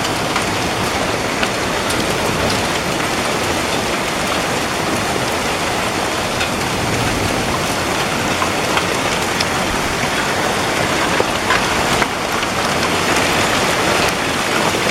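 Heavy, steady downpour of rain pelting the ground and surfaces, with scattered sharp drop ticks through it.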